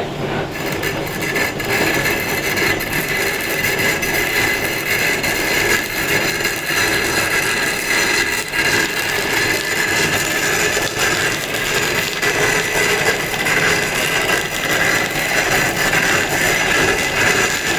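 Power tool working stone: a steady whine with a harsh, gritty hiss that fills in about half a second in.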